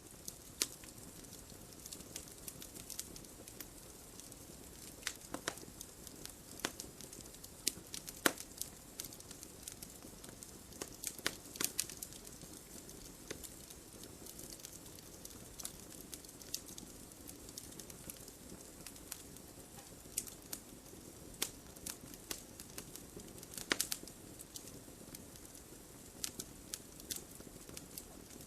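Wood fire burning in a fireplace: logs crackling with irregular sharp pops, a few louder ones scattered through, over a soft steady background.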